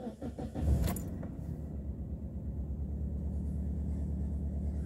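Mitsubishi Space Star 1.3's four-cylinder petrol engine cranking briefly and catching within about a second, flaring up, then settling into a steady idle. This is a cold start after the car has stood for four weeks.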